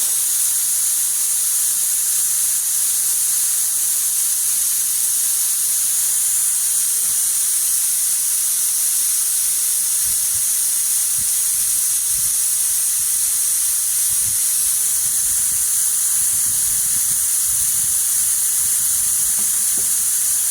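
Compressed air hissing steadily out of an HVLP paint spray gun fed by the air compressor.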